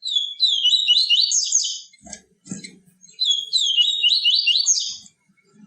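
Papa-capim seedeater singing its 'tui tui viviti' song: two phrases of high, rapidly repeated chirping notes, each about two seconds long, with a short pause between them. A brief low knock falls in the pause.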